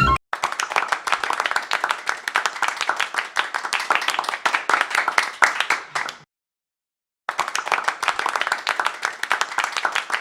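Applause, dense rapid hand clapping, in two stretches broken by about a second of dead silence.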